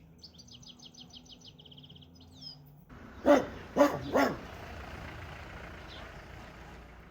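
A songbird sings a fast trill of quick repeated high notes. About three seconds in, a dog barks three times, roughly half a second apart, over a steady outdoor hiss.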